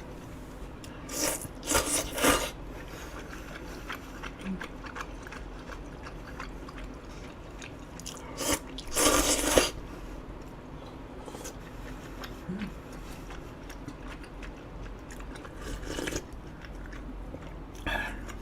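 A person eating: chewing and mouth sounds, with a few louder noisy bursts of a second or so, near the start, in the middle and near the end.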